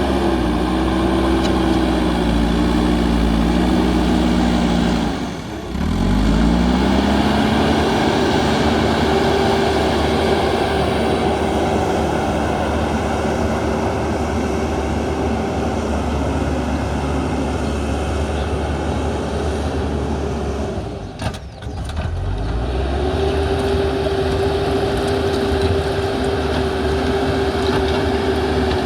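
JCB backhoe loader's diesel engine running steadily with a constant whine over it. The sound dips briefly twice, each time climbing back up in pitch.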